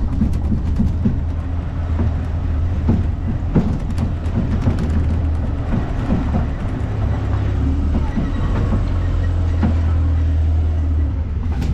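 A train running, with a steady low rumble and scattered clicks and knocks from the wheels and carriage.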